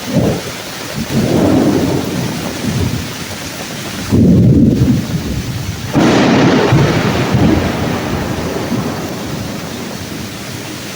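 Thunder rolling in long low rumbles over steady heavy rain falling on the leaves of the woods. The rumble swells suddenly about four seconds in and again about two seconds later, then slowly dies down.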